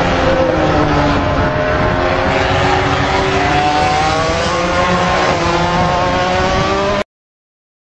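Engine running hard at high revs, its pitch climbing slowly and dipping twice as the revs change, then cutting off abruptly about seven seconds in.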